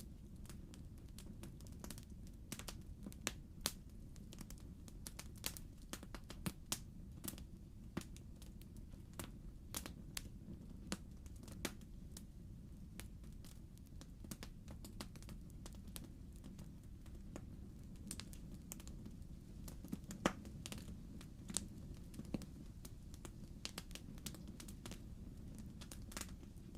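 Fireplace fire crackling: irregular sharp pops and snaps over a quiet low rumble.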